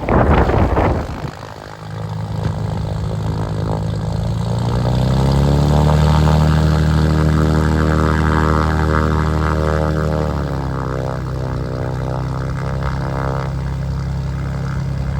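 Triumph TR8's 3.5-litre Rover V8 pulling the car along from inside the open convertible, with a noisy rush in the first second or so. About five seconds in the engine note rises and then holds steady. It drops about ten seconds in and runs on steadily at the lower pitch.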